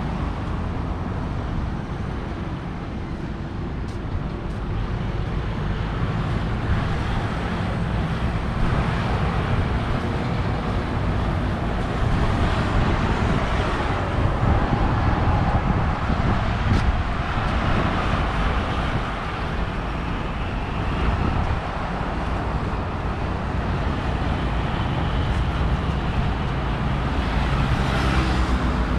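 Steady city road traffic, vehicles passing and rumbling, swelling louder for a few seconds about halfway through and again near the end.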